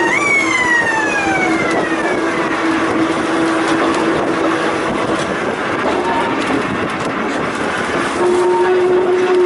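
Volk's Electric Railway narrow-gauge electric car running along the track with a steady electric hum that steps up slightly in pitch near the end. At the start a high whine sets in suddenly and falls steadily in pitch over two or three seconds.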